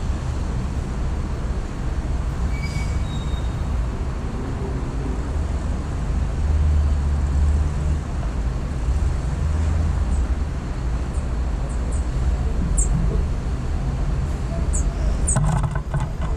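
Steady low rumble of distant city traffic, swelling for a few seconds midway, with short high bird chirps starting about ten seconds in and a few clicks near the end.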